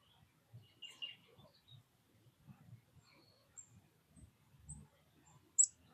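Small backyard birds chirping: a couple of short chirps about a second in, then brief very high notes, the loudest a sharp downward-sliding chip near the end. Faint low rumbling and rustling underneath.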